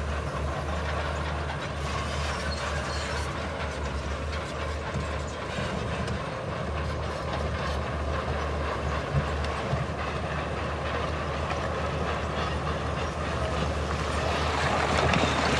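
Crawler bulldozer running, its diesel engine giving a steady low drone under the continuous clanking rattle of its steel tracks. The sound grows louder near the end.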